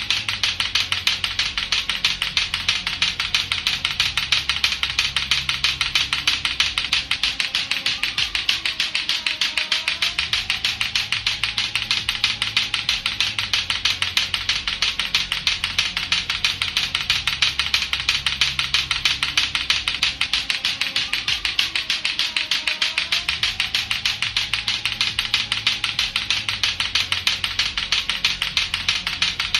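Latto-latto clacker toy, two hard plastic balls on a string knocking together in rapid, steady, unbroken clacking.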